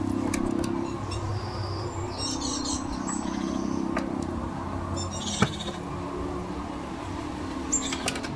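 Small birds chirping in short bursts a few times, over a steady low rumble, with a single sharp tap about five seconds in.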